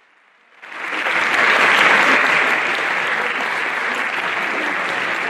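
Audience applauding, rising quickly from silence about half a second in to sustained, loud clapping.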